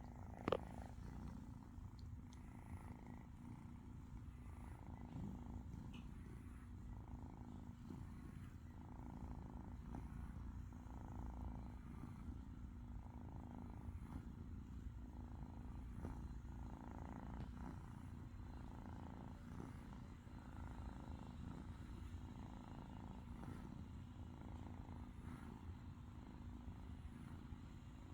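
Kitten purring steadily, rising and falling with each breath about every second and a half. A single sharp click about half a second in.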